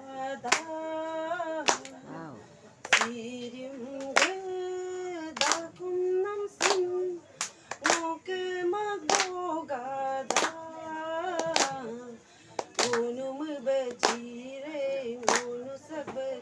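Women singing a melody with long held notes, no clear words, while hands clap a steady beat about once a second.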